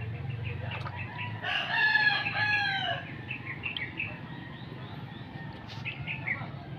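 A rooster crowing once, about a second and a half long and falling in pitch at the end. Small birds chirp briefly around it.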